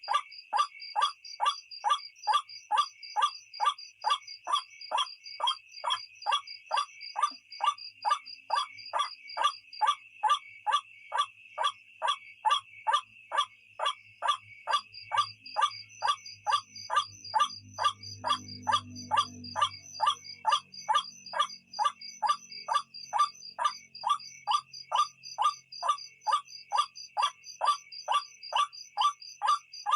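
White-breasted waterhen (ruak-ruak) calling over and over in an even, steady series of about two and a half harsh notes a second. Crickets trill steadily behind it.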